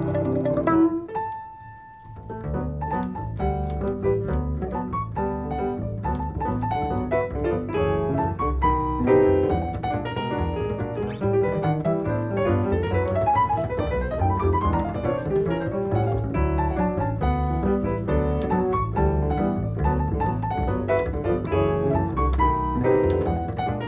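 Jazz piano and plucked double bass playing together. About a second in, the music drops briefly to a single held note, then both instruments carry on.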